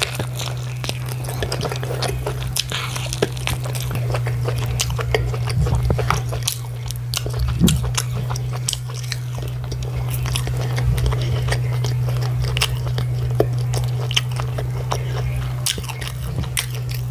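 Close-up eating sounds: biting and chewing fried chicken and then fried plantain, with many small wet mouth clicks, over a steady low hum.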